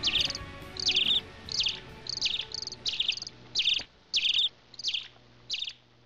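A bird chirping over and over, a short rapid high-pitched call repeated roughly every half second, while the song's last music fades away beneath it.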